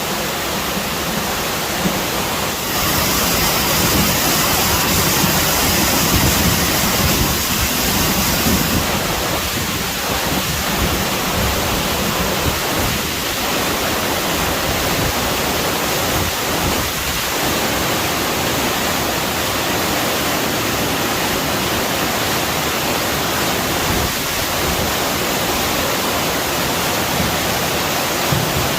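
Heavy rain pouring down as a loud, steady, dense hiss. From about three to nine seconds in, an extra bright high hiss rides on top.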